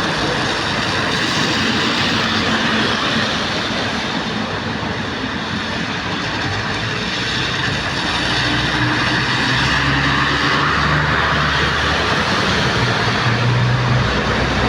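Heavy rain falling as a loud, steady hiss. A low engine hum, typical of a passing or idling vehicle, comes in about halfway through.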